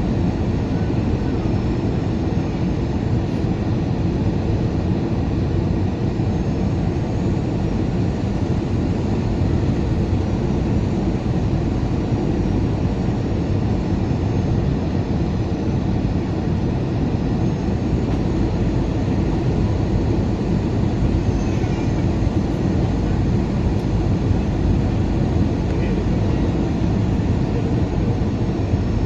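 Airbus A320 cabin noise on approach, with the landing gear down: a steady low rumble of engines and airflow that does not change.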